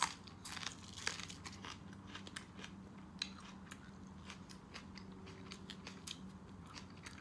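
Close-up biting and crunching of a raw green onion stalk, a string of sharp crunches over the first three seconds, then quieter chewing.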